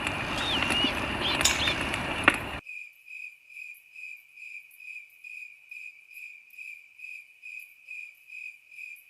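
Crickets chirping in an even rhythm, about two chirps a second. For the first two and a half seconds they sit under a loud, noisy background with sharp clicks and a few short whistle-like glides, which then cuts off abruptly, leaving the crickets alone.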